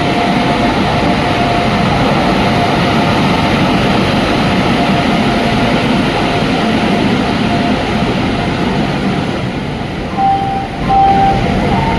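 Passenger train rolling into a station: a steady rumble of coaches on the rails with a thin, steady squeal over it. The rumble eases a little near the end, where two short squeals sound.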